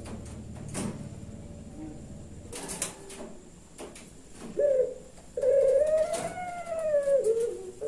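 Puter pelung dove cooing: a short note, then one long drawn-out coo that rises and then falls in pitch. A few sharp clicks come before it.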